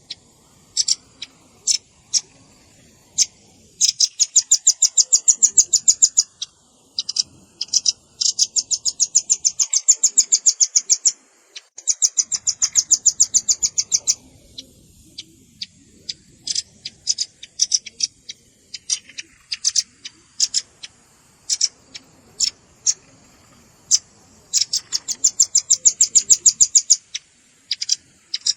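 Velvet-fronted nuthatch calls from a bird-lure recording. Several fast trills of sharp, high chips, each lasting two to three seconds, alternate with scattered single chips.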